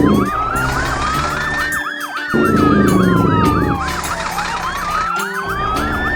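Emergency-vehicle siren: a fast up-and-down yelp layered over a slower rising-and-falling wail.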